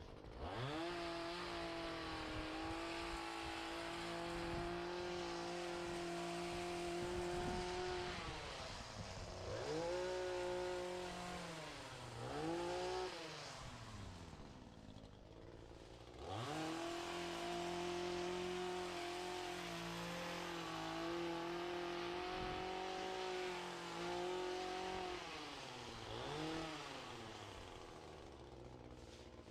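Small engine of lawn equipment running at high throttle in long held stretches. It is throttled down twice, with quick blips up and down in between, then revs back up near the end.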